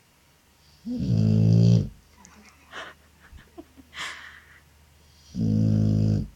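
Sleeping dog snoring: two loud snores about four seconds apart, each lasting about a second, with faint small noises between them.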